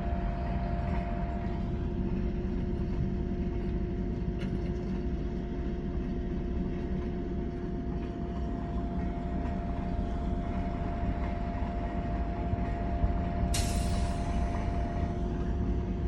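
Oil and gas drilling rig machinery running, a steady low rumble with a constant two-note hum. About 13 seconds in, a sudden burst of hissing air cuts in and fades over a second or so.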